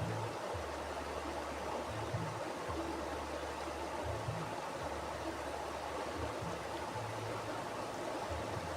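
Mountain river flowing: a steady, even rush of running water, with a low rumble underneath that shifts every second or two.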